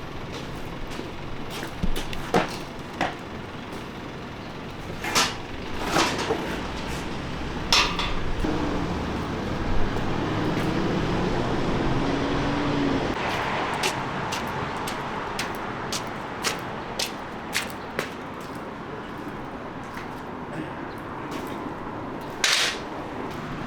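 Busy large-truck repair shop: a steady vehicle rumble under repeated metal clanks and knocks, with a few short loud hisses like air being let out, about five, six, eight and twenty-two seconds in.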